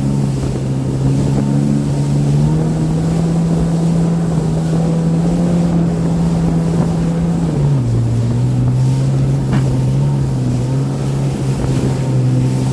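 Jet ski engine running under way, its pitch stepping up about two and a half seconds in and dropping back near eight seconds as the throttle changes, with wind on the microphone.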